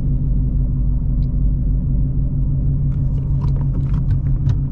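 Straight-piped Ford Mustang Shelby GT350's 5.2-litre flat-plane-crank V8, fitted with long-tube headers, running at a steady engine speed while cruising: a constant low exhaust drone with no rise or fall in revs. A few faint light ticks come in during the second half.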